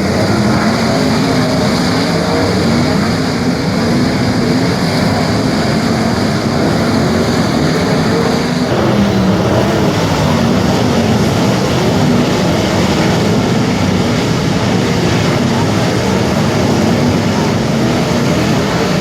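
Several sprint car engines racing on a dirt track, running loud and steady with their pitch rising and falling as the cars go through the corners. The sound changes abruptly a little under halfway through.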